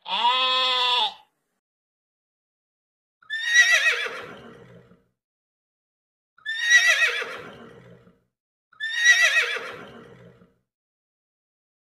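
A sheep bleats once, a steady call of about a second. Then a horse whinnies three times, about three seconds apart, each a shaking call that starts loud and fades away.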